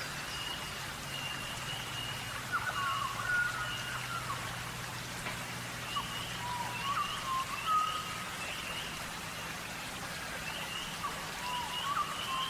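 Sand pattering and scratching as birds dust-bathe close by, like light rain, with short bird chirps and whistles scattered throughout.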